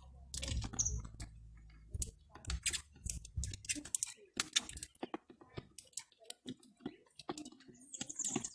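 Irregular sharp clicks and taps, like birds pecking at scattered cracked corn. A low hum runs under them for the first few seconds, then stops.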